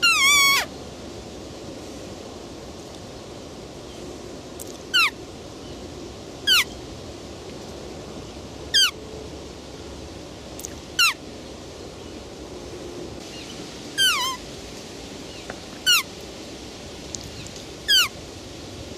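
Roe deer calling: eight short, high-pitched calls, each dropping sharply in pitch, spaced a couple of seconds apart. The first and one about two-thirds through are longer and waver.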